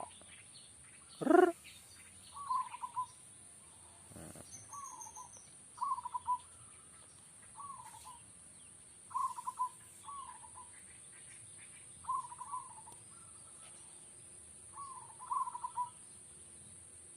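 Zebra dove (perkutut) cooing: short, rapidly trilled coos repeated every one to three seconds. About a second in, a single loud call from another bird drops steeply in pitch. A steady high-pitched drone lies underneath.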